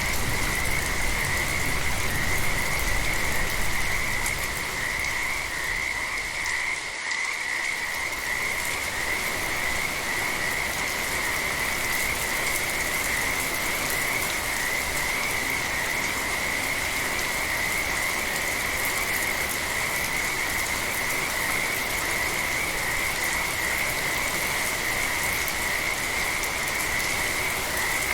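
A continuous frog chorus, heard as a steady high trilling, over gentle rain.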